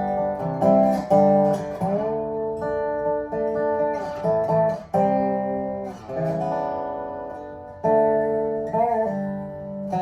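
Acoustic guitar playing an instrumental passage between sung verses, with held chords and notes that change every second or two.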